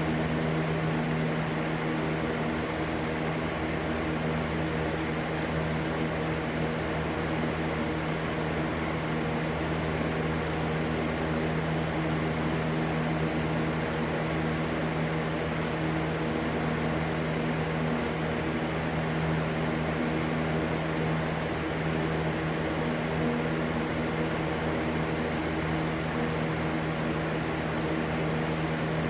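Steady white-noise rush with a constant low hum and its overtones underneath, unchanging throughout.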